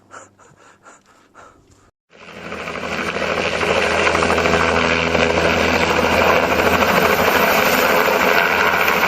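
Aircraft engine running loud and steady, with a low steady hum under a broad roar, coming in suddenly about two seconds in and building for a second before holding. Before it, faint soft puffs a few times a second.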